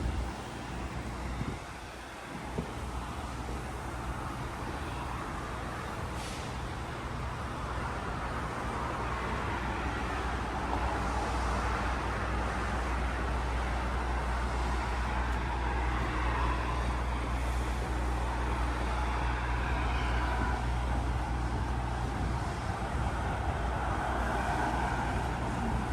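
Steady low engine drone with a rushing noise over it, dipping briefly near the start and growing louder partway through.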